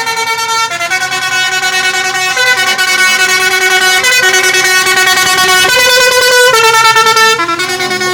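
A modified musical horn on a passing tractor plays a loud, continuous run of held notes, the pitch stepping up and down from note to note.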